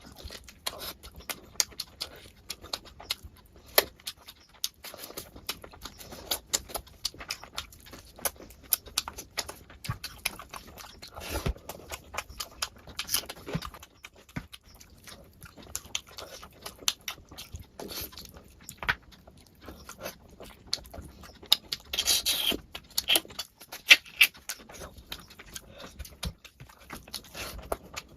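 Close-miked eating sounds: rice and curry being chewed, with many irregular wet smacking and clicking mouth noises.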